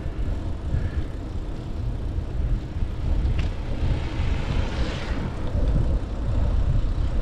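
Wind buffeting the microphone of a camera carried on a moving bicycle, a heavy uneven rumble, with a hiss that swells and fades about four to five seconds in.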